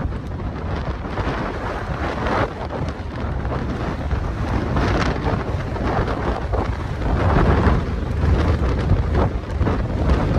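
Strong gusty wind buffeting the microphone: a loud, low, noisy rumble that swells and eases with the gusts.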